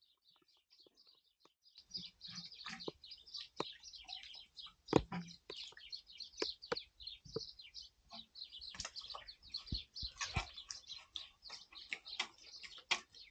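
Small birds chirping rapidly and continuously, starting about two seconds in, with a few sharp knocks among them, the loudest about five seconds in.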